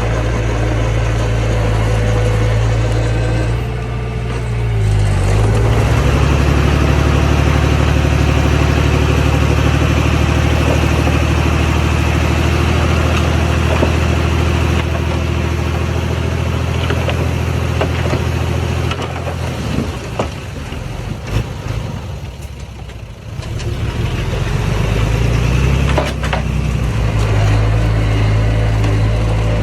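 Diesel engine of earthmoving machinery running steadily. It revs up about five seconds in and eases off with some rattling near the middle. It picks up again a few seconds before the end.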